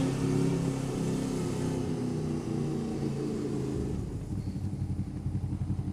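Motorcycle engine running at road speed with wind rush. About four seconds in the wind and engine note drop away to a quieter, uneven low rumble as the bike slows.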